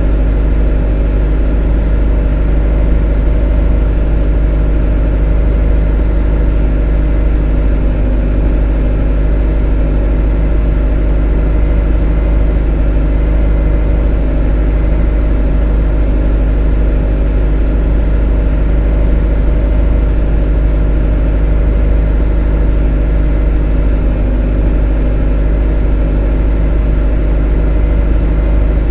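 A motor running at a constant, unchanging speed: a deep steady drone with a stack of even tones above it.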